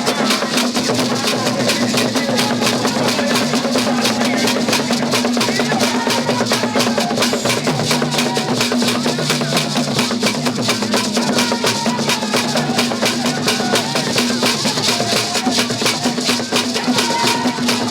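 Music of fast, dense drumming: rapid, even drum strikes with a steady low tone underneath.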